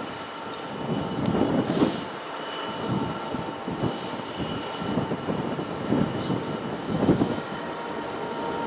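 A train running past on the line: a few steady high tones held over an uneven low rumble.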